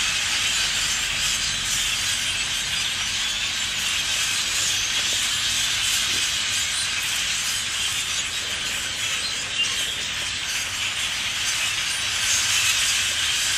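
A huge flock of birds calling all at once, a dense, steady racket of massed chatter, swelling slightly near the end.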